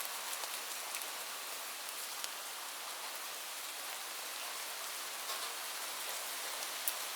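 Steady rain falling, an even hiss with now and then a single louder drop striking close by.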